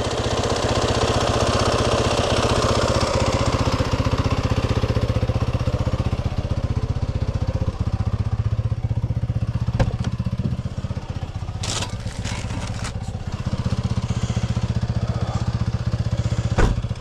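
Dirt bike engine idling steadily, with a few sharp clicks partway through and near the end.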